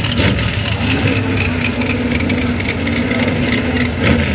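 Drag-racing engines idling loudly at the start line, a steady rumble with a brief sharper burst about four seconds in.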